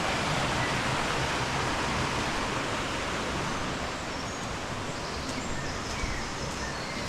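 Steady rush of river water, with a few faint high chirps in the second half.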